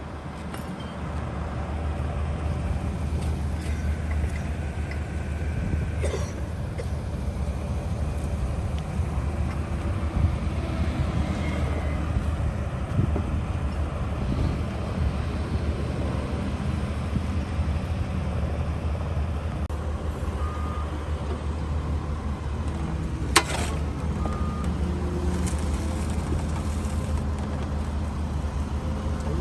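A vehicle engine running steadily with a low rumble, with a few short high beeps about two-thirds of the way in and a single sharp click just after them.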